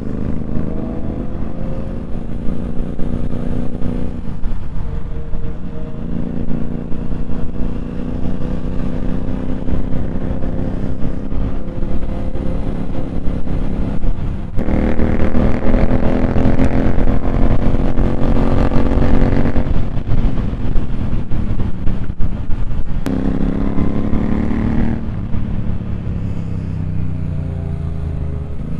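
Motorcycle engine pulling hard through the gears: its pitch climbs, breaks at each shift and climbs again, loudest about halfway through, then settles to a steadier cruise near the end.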